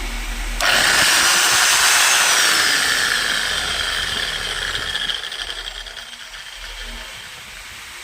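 Bosch GSH 11E demolition hammer's electric motor switched on with a sudden start. Its whine rises as it spins up, then falls and fades over a few seconds as it winds down.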